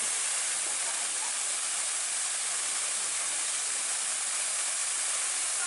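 Waterfall: a steady rush of falling water and spray, even and unchanging.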